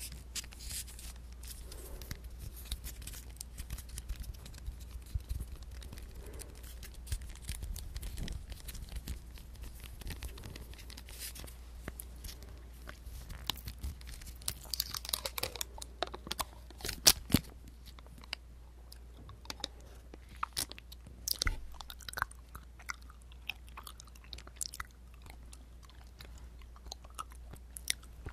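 Close-miked mouth sounds of a person chewing and biting a dessert: many small sticky clicks and crunches. The crunches grow louder about halfway through.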